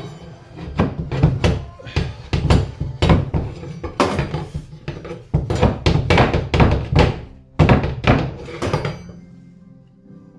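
A freshly cut piece being knocked sideways into place to sit flush: a quick, uneven run of about twenty sharp knocks that stops about nine seconds in. Background music plays underneath.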